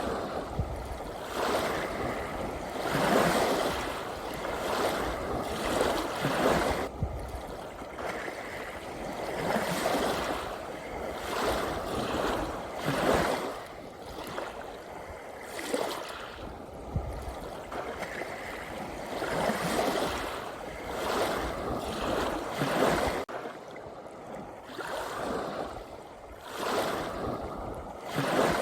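Small sea waves lapping and splashing, in uneven surges every second or two.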